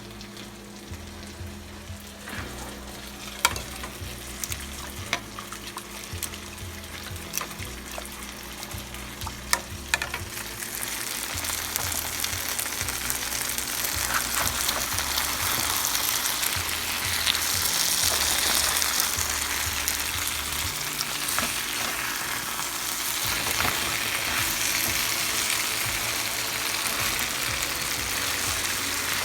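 Food sizzling in a frying pan of olive oil and butter, with sharp clicks of a utensil against the pan. The sizzle swells much louder from about ten seconds in.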